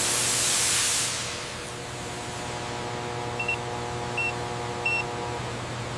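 A loud hiss for about the first second, over a steady machine hum with several held tones. Three short high electronic beeps follow, about 0.7 s apart, past the middle.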